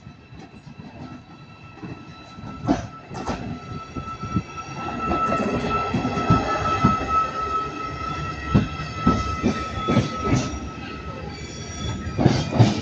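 A train rolling slowly past with a steady high-pitched wheel squeal that gets louder about five seconds in, mixed with irregular knocks and clicks as the wheels run over rail joints.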